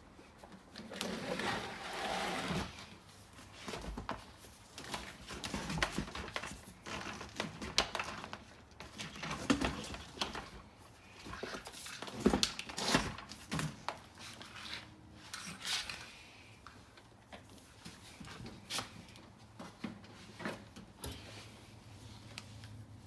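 Irregular handling noises: scattered clicks, knocks and rustling, sharpest around the middle, made while something is being tied up by hand on a welding trolley.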